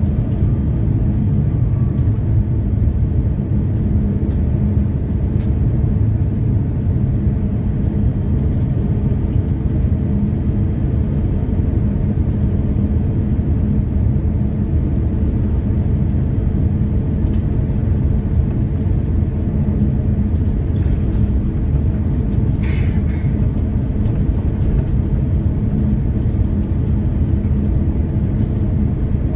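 Passenger airliner taking off: a steady, loud, low rumble of the jet engines and the aircraft's run, with a brief rattle about three-quarters of the way through.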